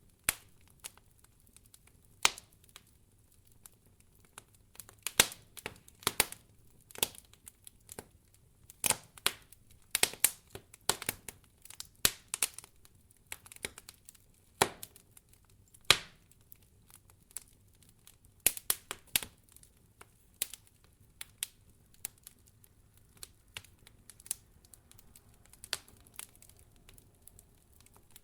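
Wood fire crackling in a fireplace: irregular sharp pops and snaps, some in quick clusters, with short quiet gaps between.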